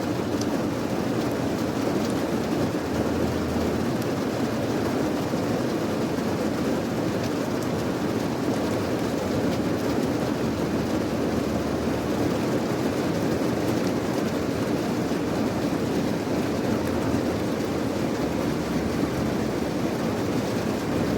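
Steady rain: a dense, even hiss weighted toward the low and middle range, with a few faint drop ticks here and there.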